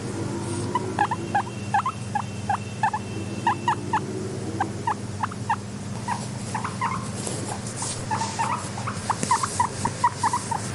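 Guinea pigs making short, rising squeaks, several a second in irregular runs, over a steady low hum.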